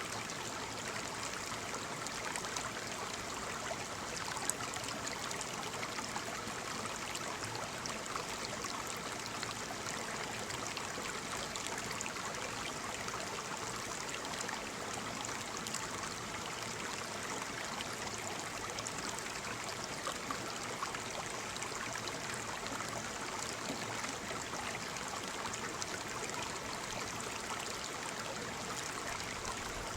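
Waterfall with falling water splashing and running in a steady, even rush, with small splashes flickering through it.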